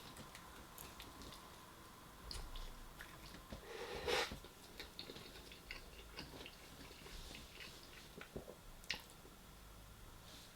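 Faint chewing of food: soft wet mouth clicks and smacks, with a louder bite about four seconds in and another near the ninth second.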